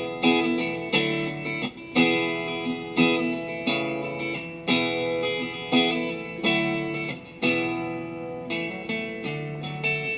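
Instrumental break in a song: acoustic guitar strumming chords, each strum starting sharply and fading, about one a second.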